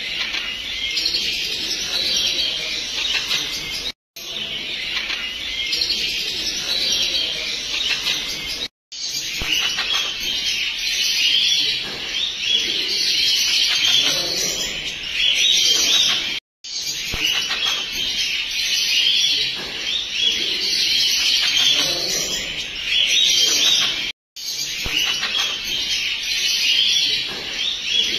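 Pet birds chirping and twittering busily and without pause. The sound cuts out briefly four times.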